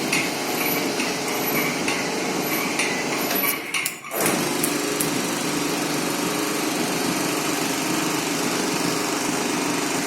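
Truck loading conveyor running with a steady mechanical drone and light intermittent clicking. The sound dips sharply about four seconds in, then comes back as a steadier hum.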